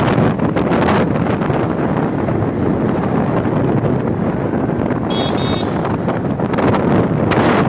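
Heavy wind buffeting the microphone over the rumble of a vehicle moving at speed. Two short high-pitched beeps come close together about five seconds in.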